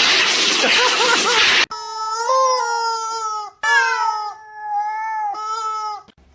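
A loud, steady rushing noise for the first second and a half, then a sudden cut to a cat yowling in three long, drawn-out wails, the middle one falling in pitch.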